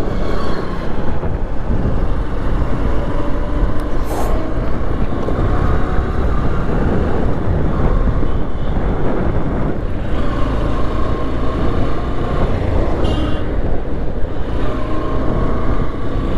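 Honda Shine 125's single-cylinder engine running as the motorcycle rides along a road, mixed with a steady rush of wind and road noise on the rider's microphone. A brief high tone sounds about thirteen seconds in.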